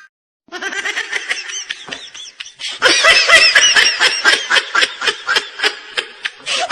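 Laughter in quick, rapid repeated bursts, starting after a brief silence and getting louder about three seconds in.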